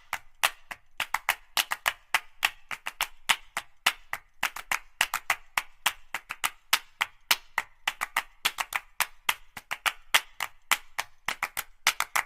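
A quick, uneven series of sharp taps, about four or five a second.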